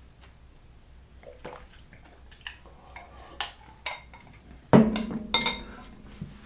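A spoon clinking and scraping in a bowl of fruit, ice and coconut water, with small clicks and liquid sounds. Near the end there are two sharper clinks that ring on briefly.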